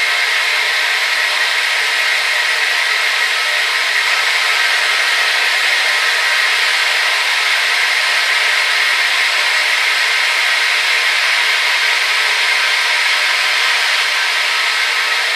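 Hair dryer running steadily: an even rush of blown air with faint constant motor tones, its pitch and level unchanging.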